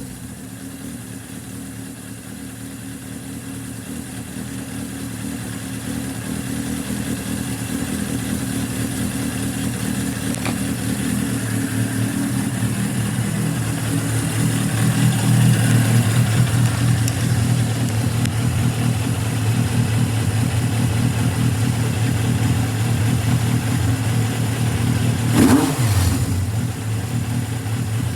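Suzuki GSX750S Katana's air-cooled inline-four engine idling steadily, growing gradually louder over the first half, with one quick throttle blip about 25 seconds in.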